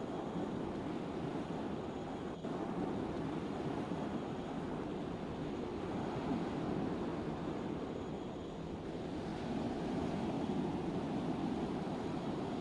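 Steady low rumble of a cargo ship under way, mixed with the wash of water and wind on the microphone.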